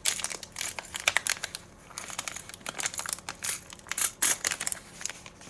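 Plastic packaging crinkling as it is handled, a dense run of quick, irregular crackles with the loudest ones near the start and about four seconds in.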